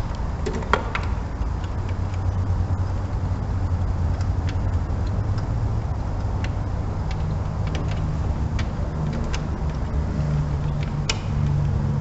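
Scattered light metallic clicks and taps of a socket wrench and extension working at a spark plug, over a steady low rumble whose hum shifts in pitch about seven seconds in.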